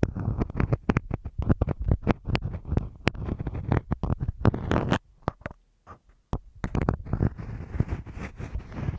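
Marking pins scratching and tapping on masking tape stuck over a microphone, picked up very close: a dense run of crackly clicks and scrapes. It stops briefly about five seconds in, then resumes as steadier scratching.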